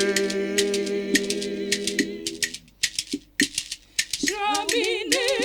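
Gospel singing over a steady shaker rhythm: a long held note ends about two seconds in, leaving the shaker clicks nearly alone, then the voices come back in with vibrato near the end.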